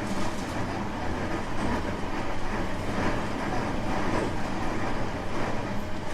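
Running noise of a 225 series 5000 electric multiple unit under way: a steady rumble of wheels on rail with a few faint rail-joint clacks.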